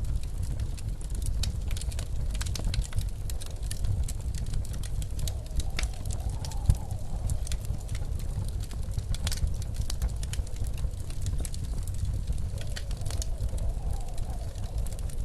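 Wood fire crackling with frequent sharp pops over the steady low rush of blizzard wind. Twice the wind rises into a faint, wavering howl.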